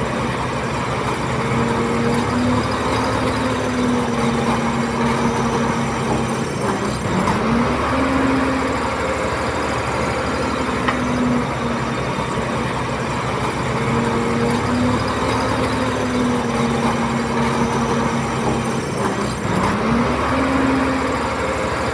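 Komatsu D31P bulldozer's diesel engine running steadily under work. Its note dips in pitch and climbs back twice, about twelve seconds apart.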